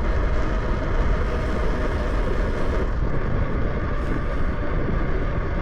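Steady rushing wind and road noise from a bicycle on the move, heaviest in the low rumble, with no distinct events.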